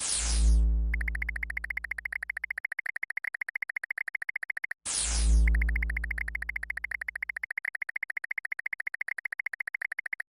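Synthesized electronic sound effect, played twice: each time a loud low swelling tone with a quick sweep turns into a rapid, even pulsing at one steady pitch, then cuts off suddenly.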